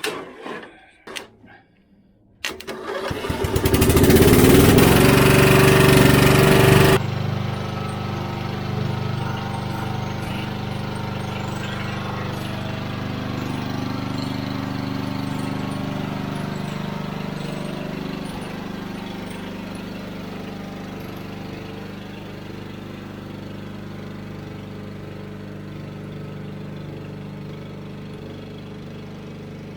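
Riding lawn tractor's engine starting: a few clicks, then about two and a half seconds in it catches and runs loud and fast for about four seconds before dropping suddenly to a steady run, which gets quieter over the last third.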